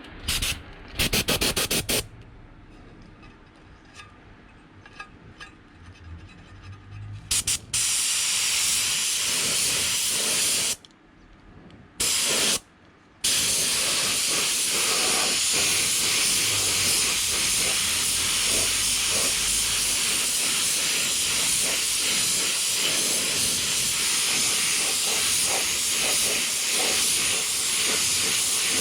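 Black paint being sprayed onto motorcycle parts, heard as a steady hiss. It starts with a few short spurts, then becomes a long continuous spray from about eight seconds in, broken by two brief pauses.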